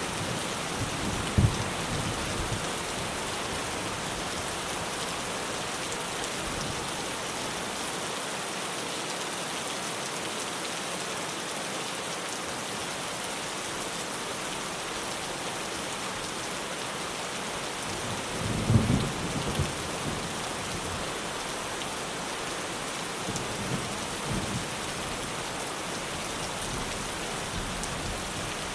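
Steady rain falling on a tin roof, with thunder rumbling several times: briefly about a second in, loudest about two-thirds of the way through, and more weakly a few seconds after that.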